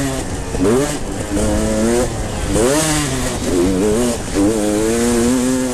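Motocross motorcycle engines racing on a dirt track, the pitch climbing sharply several times as the throttle is opened and dropping between, with stretches held at a steady high rev.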